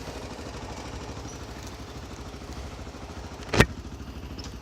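Honda XR motorcycle's single-cylinder engine idling with a fast, even pulse, with one sharp clunk about three and a half seconds in.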